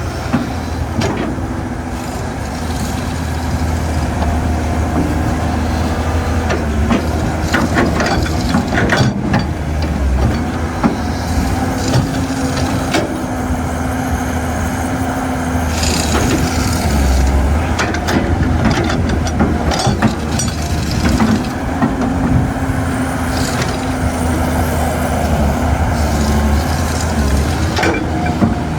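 Caterpillar 320C excavator at work: its diesel engine runs steadily under a higher droning tone that swells and fades twice, with frequent sharp metallic knocks and scrapes.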